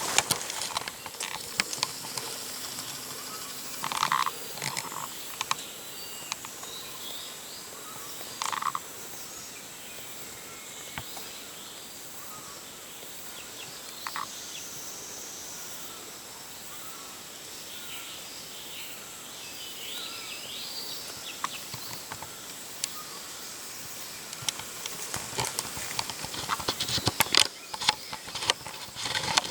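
Jungle ambience: a steady high-pitched drone with a few short, separate bird-like calls in the first half. Near the start and again near the end come bursts of clicking and rustling, like brush being handled or pushed through.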